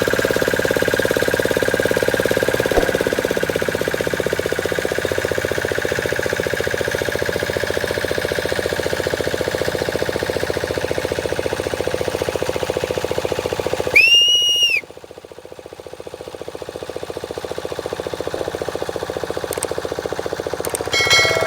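Boat engine running steadily with a fast, even chugging rhythm. About two-thirds of the way through, a short high tone sounds, then the sound drops sharply and slowly builds back up.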